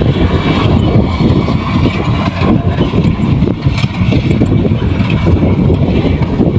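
Kubota combine harvester running steadily, with a loud, even low-pitched machinery noise that does not change.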